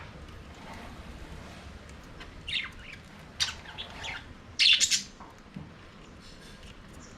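Budgerigars chirping: a few short, high calls about two and a half seconds in, then a louder cluster of quick chirps around the middle, over a steady low background noise.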